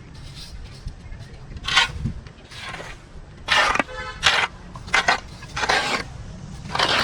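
Repeated short scraping and rustling strokes, roughly a second apart, of overgrown weeds being cleared, with a quick rattle about four seconds in.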